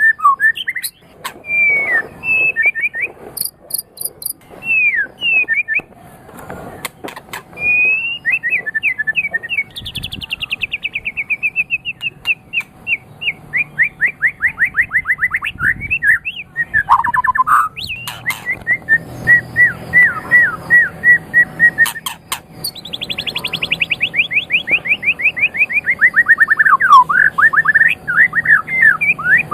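White-rumped shama (murai batu) singing: long phrases of rapidly repeated whistled notes, with trills that sweep down from high pitch, running almost without a break.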